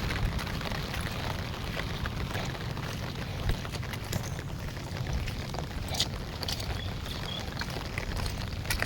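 Heavy monsoon rain pouring steadily, a dense hiss with a low rumble underneath and scattered sharp clicks of nearby drops striking.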